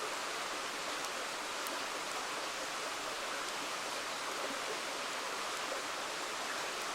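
River water flowing with a steady rushing sound, with a few faint, sharp crackles from a campfire.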